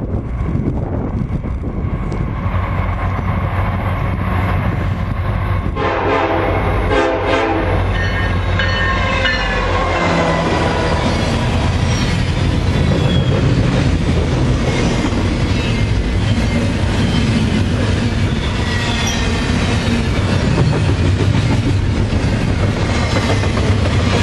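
EMD SD70M-2 diesel locomotive approaching with its engine running, sounding a short horn blast about six seconds in, then passing with a falling pitch. Double-stack intermodal cars follow, their wheels clicking over the rail joints with occasional short, high squeals.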